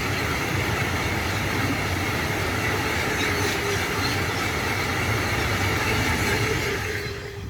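Train passing at speed: steady rolling noise of wheels on rails with a low rumble, cutting off abruptly near the end.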